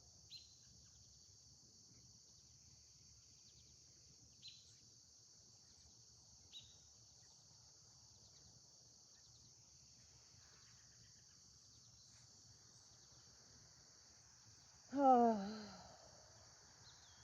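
Crickets chirping steadily in a faint high chorus, with three short descending bird chirps in the first seven seconds. About fifteen seconds in, a loud voiced sigh, falling in pitch.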